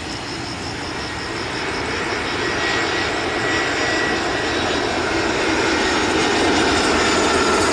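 Airbus A320-200 jet airliner coming in to land, its engine noise growing steadily louder as it nears, with a faint whine over the roar.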